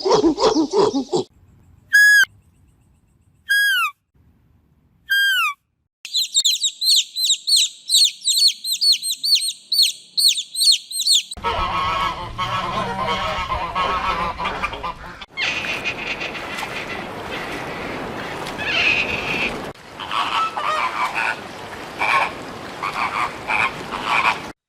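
A series of animal calls played one after another: three separate short, high calls sweeping downward in pitch, then about five seconds of rapid high chirping, then a noisier stretch of repeated calls of waterfowl or frogs.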